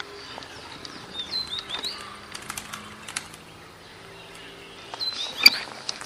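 Small songbird calling: a quick cluster of high, sliding notes about a second in and another near the end, with scattered sharp chips between.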